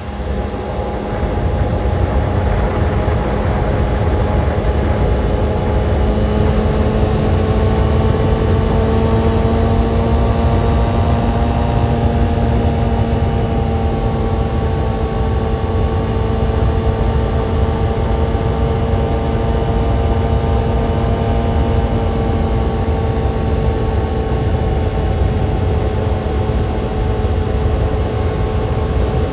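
Kawasaki sport motorcycle engine running at a steady speed, its pitch climbing slightly over the first several seconds and then holding, over a heavy low rumble.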